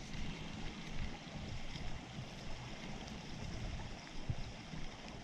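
Stream water running steadily, with low, uneven wind rumble on the microphone.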